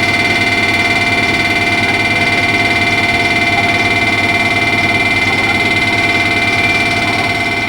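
Loud, steady machine noise from a train, with high whining tones held at a fixed pitch and no rhythm or change, fading away near the end.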